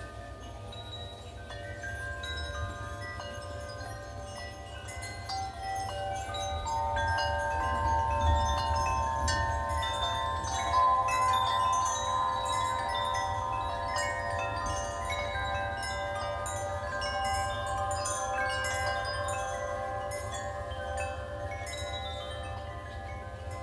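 Metal wind chimes ringing in gusty wind, many overlapping tones sounding and fading, growing louder and busier partway through as a gust strikes them. A steady low rumble runs underneath.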